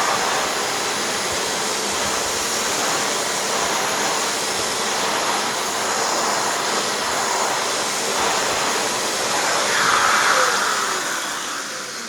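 Dyson DC25 upright vacuum cleaner running with an air-driven hand turbo tool on its hose: a steady rush of suction and the spinning turbine, which keeps its speed without bogging down. Near the end the vacuum is switched off and its motor runs down with a falling whine.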